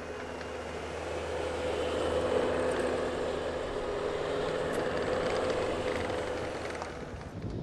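Small dirt bike engine, a 110 pit bike, running at fairly steady revs as it is ridden. It gets louder over the first couple of seconds, then slowly fades away.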